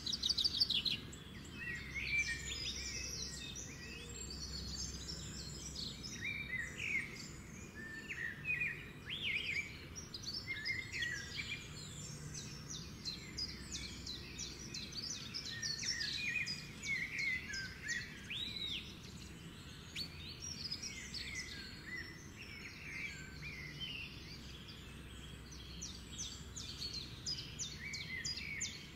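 Many birds chirping and singing, short calls overlapping throughout.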